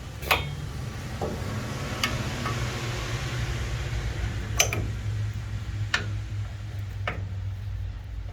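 A few sharp metallic clicks and knocks from hand tools against metal, spaced a second or so apart, over a steady low hum.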